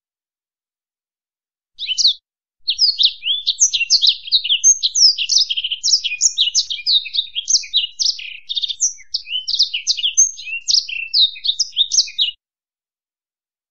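A finch-family songbird singing: a short call about two seconds in, then a fast, unbroken run of high twittering chirps and trills for about ten seconds before it stops abruptly.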